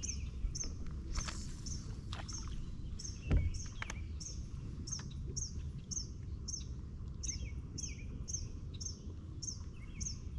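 A bird's short high chirp repeated evenly about three times a second, over a low rumble. A single knock about three seconds in is the loudest sound.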